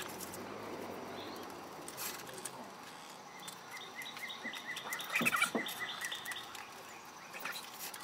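A bird chirping in a quick even run of short high notes about halfway through, over light rustling and a few soft taps from hands working leather lace through a wooden case.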